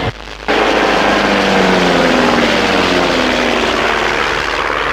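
Propeller engine of a Pitts Special aerobatic biplane, a 200 horsepower Lycoming, running hard in display flight, its note falling slowly and steadily in pitch. The sound drops out briefly just after the start.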